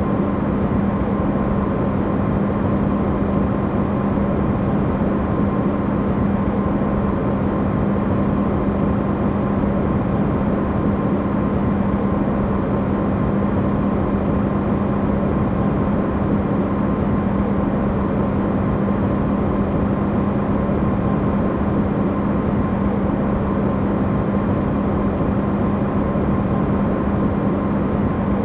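Amplified refrigerator running: a steady, even hum with a strong low tone and a fainter higher one over a rushing noise, unchanging throughout.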